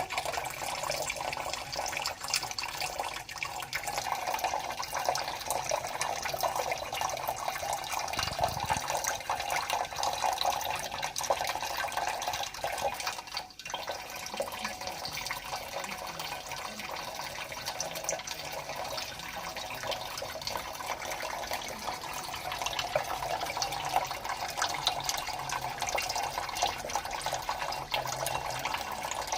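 Water running steadily, as from a tap, with a fine splashing texture.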